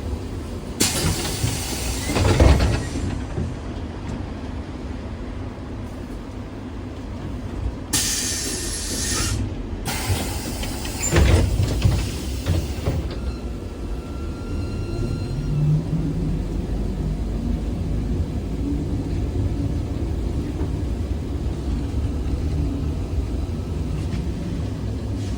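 ZiU-682G trolleybus running with a low rumble, broken twice by a loud hiss of compressed air, each with a thump. Later a faint whine runs under the rumble.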